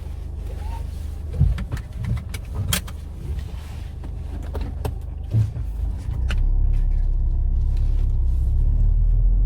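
Ford Fiesta ST180 engine heard from inside the cabin while driving, a steady low drone with several sharp clicks and knocks in the first half. About six seconds in the low drone grows louder and heavier. The drone is engine vibration coming through a solid aftermarket engine mount with no give, straight into the body of the car.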